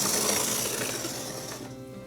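Small HO scale locomotive running on steel track with a loud, rough, grinding rattle from its motor and wheels, which dies away about a second and a half in as it slows. The motor is probably an old pancake motor, and it is struggling after sitting unused for years.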